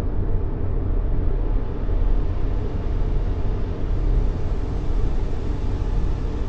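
Steady white-noise track for baby sleep: an even, unbroken rushing noise weighted toward the low end, a deep muffled rumble with only a faint hiss above it, meant to mimic the sound of the womb.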